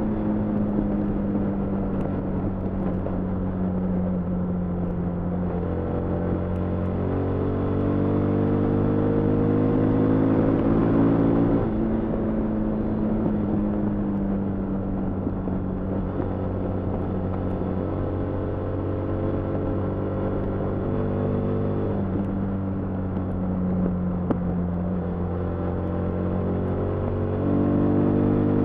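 Yamaha FZ25's 249 cc air-cooled single-cylinder engine and stock exhaust heard while riding. The engine note climbs steadily under acceleration, drops suddenly about twelve seconds in, eases down for a while, then climbs again near the end.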